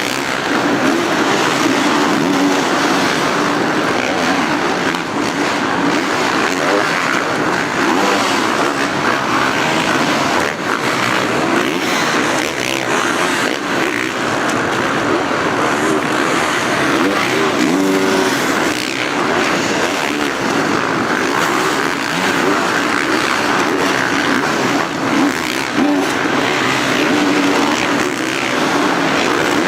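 Several supercross dirt bikes running on a track, their engines revving up and down as they accelerate and shift.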